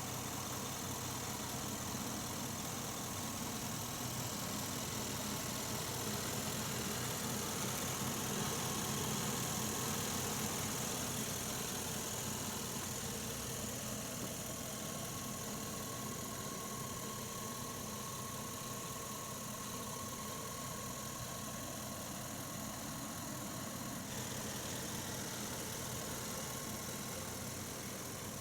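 A car engine idling steadily: an even, low hum with a constant hiss over it.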